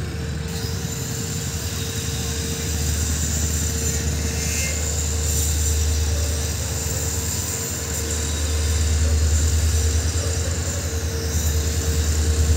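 Goods train headed by twin WDG4 diesel locomotives approaching, a deep steady engine rumble that grows louder as it nears.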